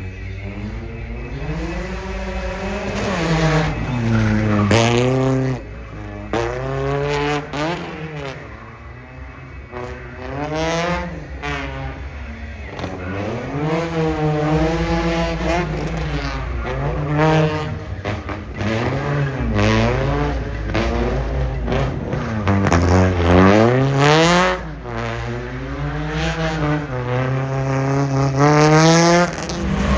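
Sports car engine revving hard, its pitch rising and falling over and over as the car is driven in a drift or slalom, with tyre squeal.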